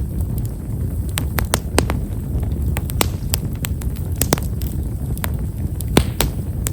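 Bonfire of himeshara (Japanese stewartia) firewood crackling: small, sharp, scattered pops over a steady low rumble, with one louder pop near the end. This wood's crackle is fine and quiet.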